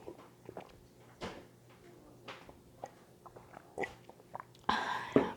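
Close-miked chewing with soft, scattered mouth clicks and smacks, and a louder noisy burst near the end.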